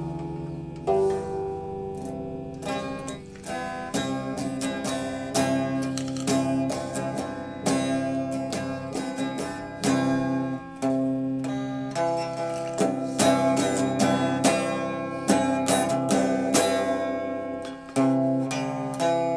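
Music on a plucked string instrument: a melody of single plucked notes and chords, each struck sharply and left to ring.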